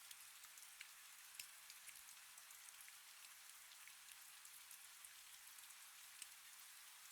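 Faint, steady rain: a soft hiss with many scattered ticks of single drops landing.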